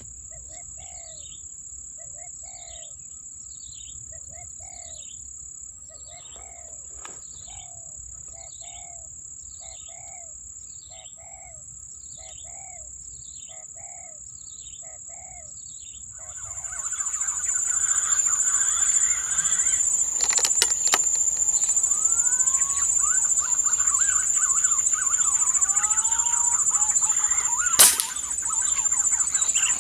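Birds calling in the trees: a short call repeats about once a second, then a busier mix of chirps comes in. Near the end, a single sharp crack of a hunting air rifle's shot rings out.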